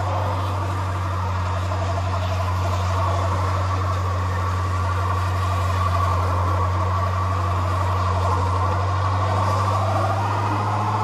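Car engine running at steady high revs, a constant low drone that rises slightly in pitch near the end.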